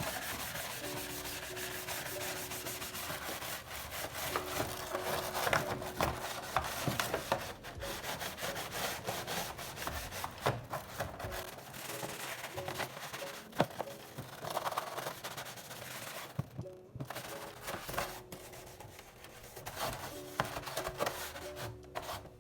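Fridge being scrubbed by hand: a rough rubbing noise in uneven strokes, with a few sharp knocks, and a short pause about three quarters of the way in.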